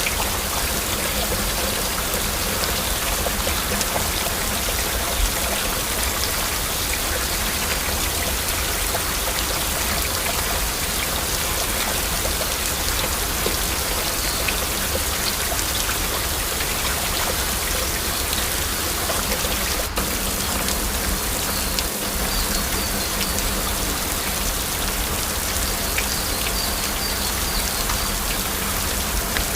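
Steady heavy rain, with many individual drops ticking through a constant hiss.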